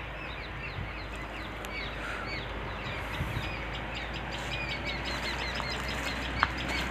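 Small birds chirping: a rapid run of short, hooked chirps that grows busier about halfway through.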